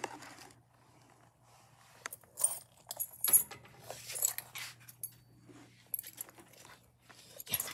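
Rattling and clinking of something small being grabbed and handled against a white plastic lattice crate, in several short bursts; the loudest comes about three and a half seconds in, with another near the end.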